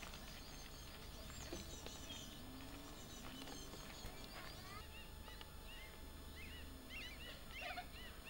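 Small birds chirping outdoors, with a quick run of short, repeated high chirps in the second half.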